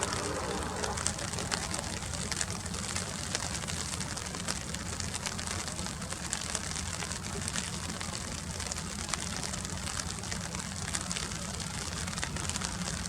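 Rain falling on surfaces close to the microphone: a steady hiss scattered with small drop ticks, over a steady low rumble.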